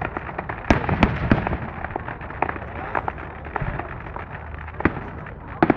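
Fireworks display exploding: a run of irregular sharp bangs with crackling between them, over a steady low rumble. The loudest bangs come about a second in and again just before the end.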